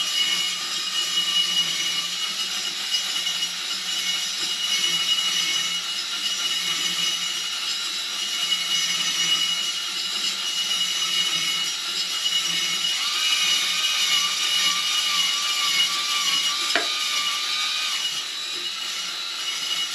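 Electric drill spinning an oiled abrasive hone inside the rusty bore of a 1973 Honda CB450 engine, a steady motor whir with a scraping rasp. The rasp is rust still in the bore being worn away.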